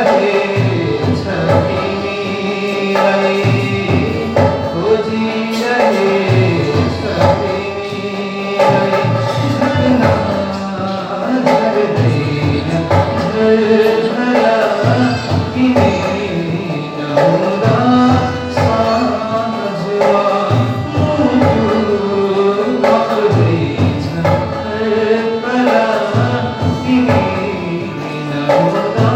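A male singer performing a Nepali modern song (adhunik geet) over instrumental accompaniment with a steady beat.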